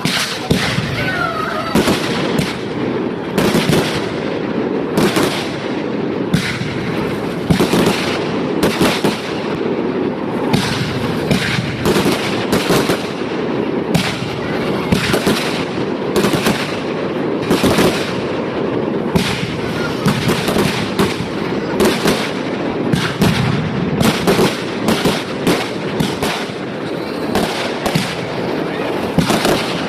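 Fireworks going off in rapid succession, a dense run of sharp bangs, often several a second, over continuous crackling.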